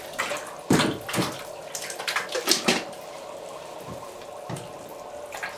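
Water splashing and sloshing in a small tub as a white-winged scoter swims and feeds on minnows: a run of short, irregular splashes, thinning out toward the end.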